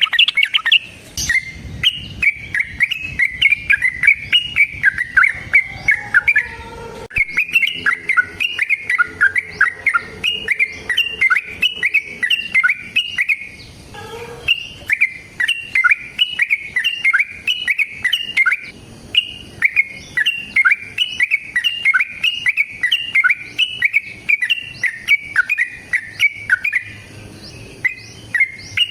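Yellow-vented bulbul (trucukan) singing a long, fast run of repeated chirping notes, broken by brief pauses a few times. This is the rapid continuous 'ropel' song that keepers play to lure trucuk birds and get them to answer.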